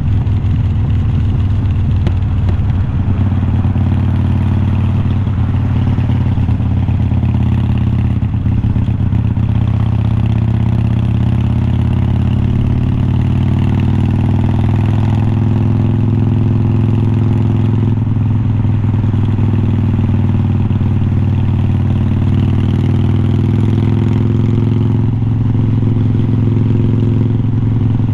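Harley-Davidson Iron 1200's air-cooled 1200 cc V-twin running through glass-pack style slip-on mufflers. It runs steadily and loud, with the engine note easing up and down a little.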